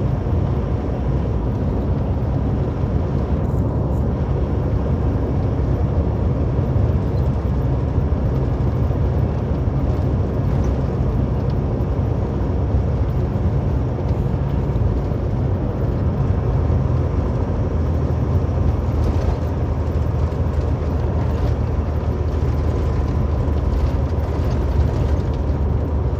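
Steady low drone of a semi truck's engine with road and tyre noise, heard from inside the cab while driving at highway speed.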